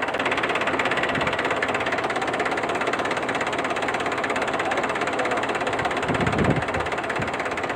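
Small tractor's motor running steadily with a rattling knock, with a louder low thump about six seconds in.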